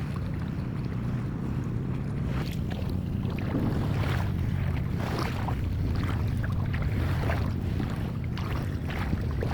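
Steady low rumble of seaside ambience with scattered splashing and sloshing of shallow sea water, a little busier from about three seconds in.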